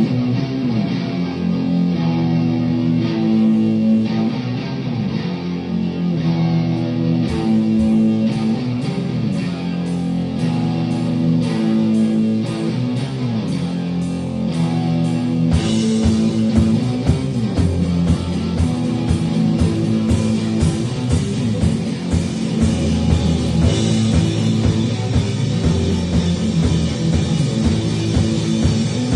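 Rock band playing live, an instrumental opening led by guitar. Light, steady ticking joins about a quarter of the way in, and the full drum kit comes in about halfway through.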